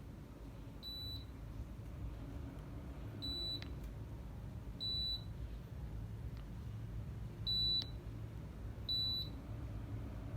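Reetech mini split air conditioner beeping: five short, high beeps at uneven intervals, over a low, steady hum.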